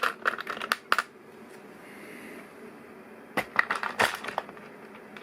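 Plastic LEGO Technic pieces clicking and clattering as they are handled, in two short clusters: one during the first second and another about three and a half seconds in.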